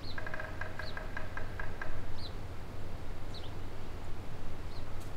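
Birds calling: short high chirps repeat about once every second or so, with a rapid run of about eight repeated call notes in the first two seconds. A steady low hum and a hiss of background noise lie underneath.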